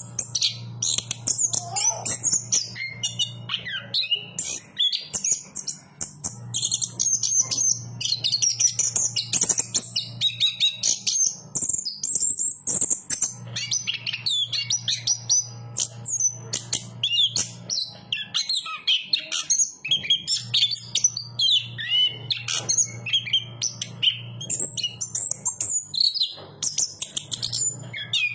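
Chestnut-capped thrush (anis kembang) singing a continuous, fast run of varied high whistles and trills with hardly a pause. A low steady hum sits under it and drops out a few times.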